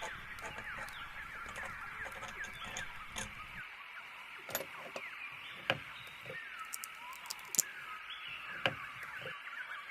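Small songbirds chirping and twittering in a busy, overlapping chorus of short, quick notes, with a few sharp taps or clicks scattered through the second half.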